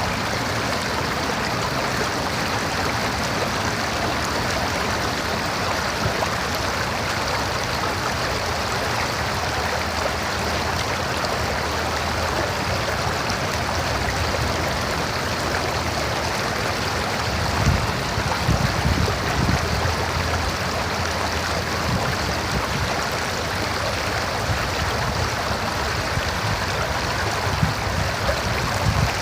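A river running steadily with a continuous rush of water, with some brief low rumbles about two thirds of the way through and again near the end.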